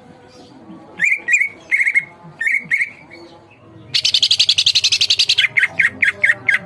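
Green leafbird (cucak ijo) singing loudly: groups of quick chirps from about a second in, then a fast, dense trill, followed by a rapid run of sharp repeated notes near the end.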